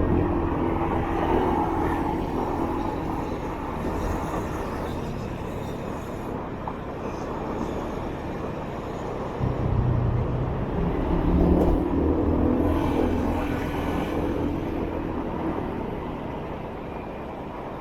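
Motorbike riding through city traffic: its engine running, with road and wind noise and other vehicles around it. Past the middle it briefly grows louder.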